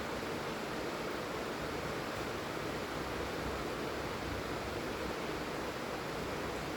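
Steady rain falling, a constant even hiss with no distinct drops or breaks.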